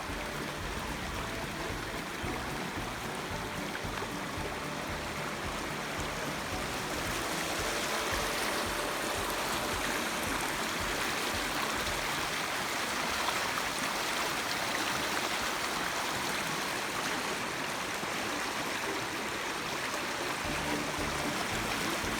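Rain-swollen creek water rushing steadily, a little louder from about eight seconds in.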